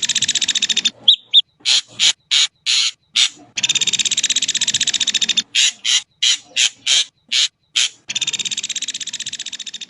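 Ashy drongo calling: long, fast rattling trills of about two seconds each, three in all, separated by runs of short, sharp single notes.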